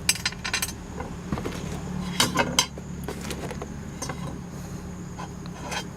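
Light metal clicks and clinks as small car suspension parts are handled: a lower ball joint with its locking clips and grease fittings, over a steady low hum.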